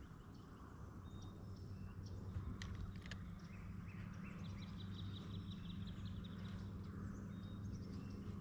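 Birds chirping and calling, with a rapid trill near the middle, over a steady low hum; two sharp clicks a little before the middle.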